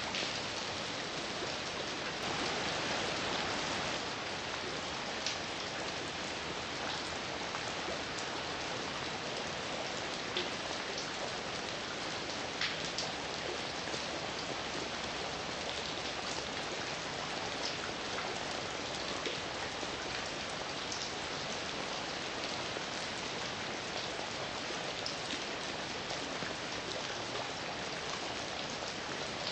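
Steady heavy rain falling, an even hiss with individual drops ticking out here and there.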